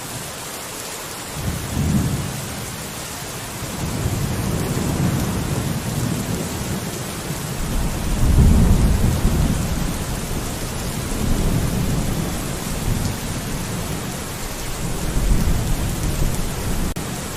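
Steady rain hiss with low rolling thunder rumbling in repeatedly, the strongest rumble about halfway through.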